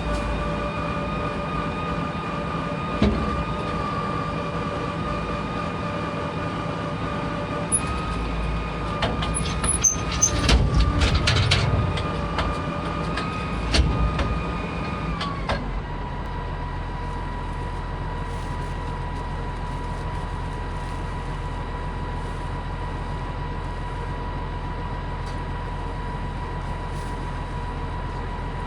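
Farm vehicle running with a steady whine over the engine, and a spell of knocks and rattles about eight to fourteen seconds in. At about sixteen seconds the whine drops slightly in pitch and the sound settles into an even drone.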